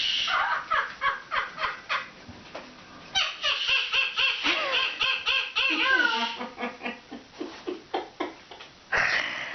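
Timneh African grey parrot laughing, mimicking human laughter in quick runs of short 'ha-ha' notes. A longer pulsing laugh sits in the middle, and a sudden loud burst comes near the end.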